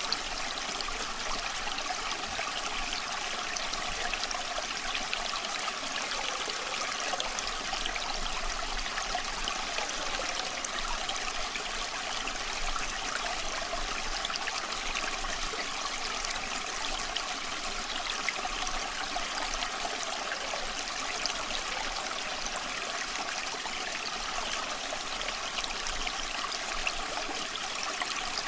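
A small stream trickling and burbling steadily, dotted with many fine crackles of an open campfire.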